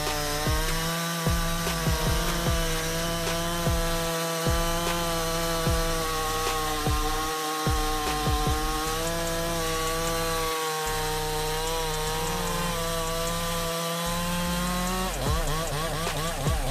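Large two-stroke chainsaw with a bar nearly 2 meters long, running at high revs as it cuts through a log. Its pitch wavers slightly under the load. Near the end the revs swing up and down as the saw is eased off.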